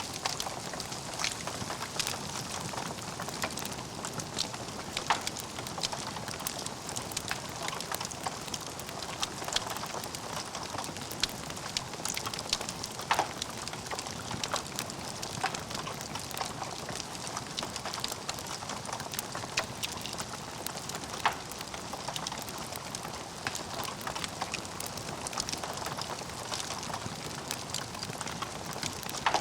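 Wood fire burning in a fireplace: a steady hiss with frequent, irregular crackles and sharp pops of the burning logs.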